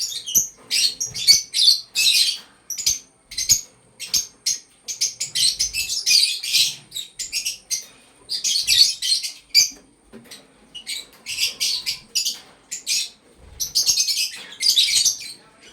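Fischer's lovebird chattering: rapid high chirps in clusters a second or two long, with short pauses between them.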